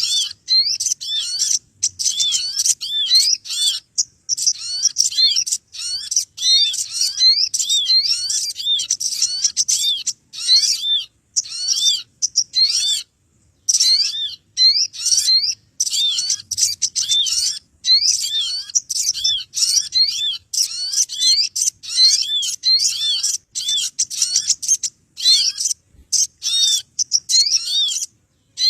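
Small birds chattering in a dense, agitated stream of quick, high, hooked chirps, repeated several times a second with only a brief break about halfway. This is a lure call played to draw small birds in.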